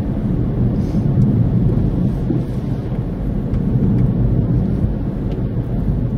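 Thunderstorm: a long, loud, steady low rumble with faint scattered ticks.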